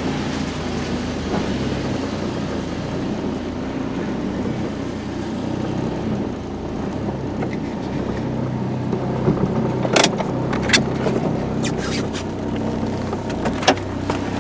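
A 1987 VW Cabriolet's K-Jetronic fuel-injected four-cylinder engine idling steadily soon after a cold start. A few sharp clicks come about ten seconds in and again near the end.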